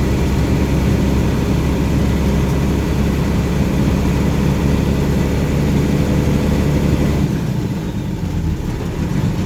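Truck engine running with a steady deep drone. A little past seven seconds in, it drops lower and quieter for about two seconds, then picks up again near the end.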